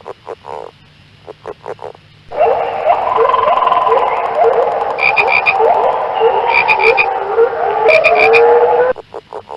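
Frogs calling: a few short pulsed calls, then abruptly a loud, dense chorus of many frogs with repeated rising calls and brief higher-pitched trills, which cuts back to the sparse pulsed calls near the end.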